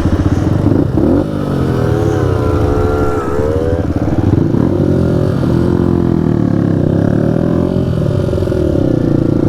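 Motorbike engine pulling away and revving, its pitch rising and falling again and again through the gears.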